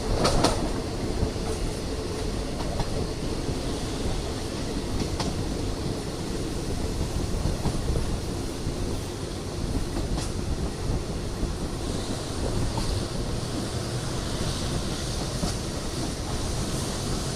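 Passenger train running along the rails with a steady rumble and occasional sharp clicks of the wheels passing over rail joints.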